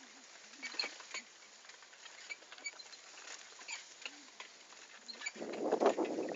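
Bicycle riding along a forest track: light scattered clicks and rattles, then a louder rough rumble starting about five seconds in.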